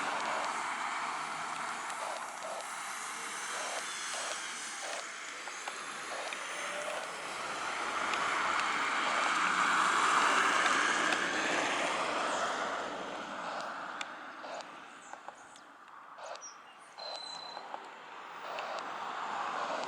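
Boeing 737-800 jet engines, a steady rushing roar that swells to its loudest partway through and then fades as the airliner moves away. Faint ticks and a short high chirp come near the end.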